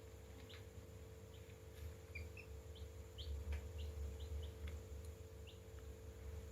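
Young chicks peeping: a scatter of short, high cheeps, about a dozen, over a steady low hum.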